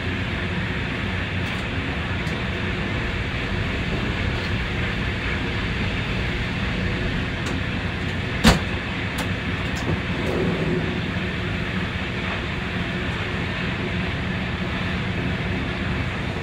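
Intercity train running along the line, heard from the driver's cab: a steady rumble of the wheels on the rails. One sharp click comes about eight and a half seconds in, with a few fainter clicks scattered through.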